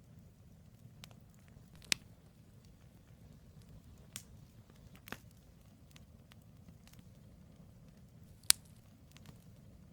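Wood logs burning in a campfire: a low steady rumble of flame with scattered sharp crackles and pops, two loud pops about two seconds in and near the end.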